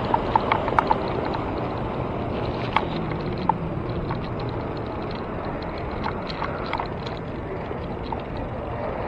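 Steady road and wind noise of a bicycle ride through city traffic, with a few short sharp clicks, a quick run of them in the first second and two more a few seconds in.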